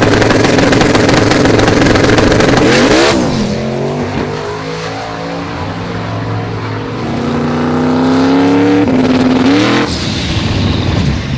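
High-powered car engine accelerating hard, its pitch climbing, dropping sharply at a gear change about three seconds in, then climbing again until another break near the end.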